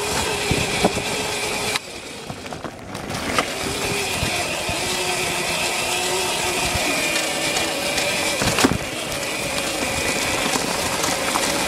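Dirt bike engine running under way. It drops off briefly about two seconds in, then picks up again and holds a fairly steady pitch with small rises and falls in speed.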